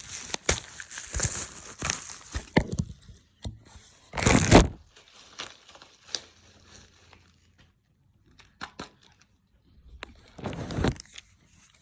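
A plastic supplement bottle's packaging being opened by hand: crinkling and crackling, with a short, loud tearing rip about four seconds in and another near the end.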